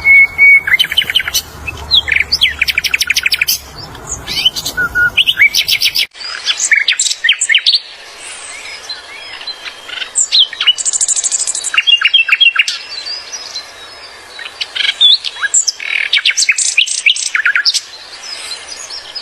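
Grey-headed canary-flycatcher singing busily: a rapid run of high chirps, short whistles and quick trills. A low hum underneath stops abruptly about six seconds in.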